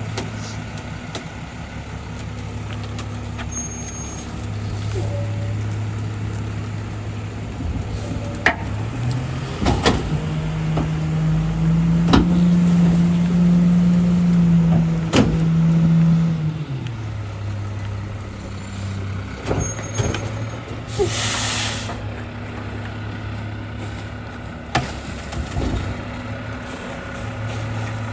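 Garbage truck engine idling, then revving up for about seven seconds as the packer compacts a load of Christmas trees, with scattered sharp cracks and knocks. A short burst of air hiss comes about 21 seconds in.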